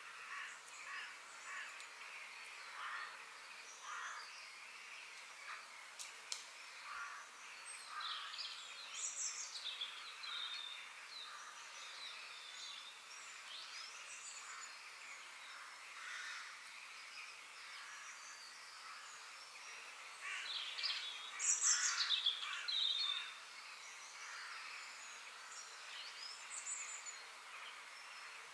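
Forest birds chirping and singing, many short calls and whistles from several birds over a steady background hiss, with a louder flurry of calls about three-quarters of the way through.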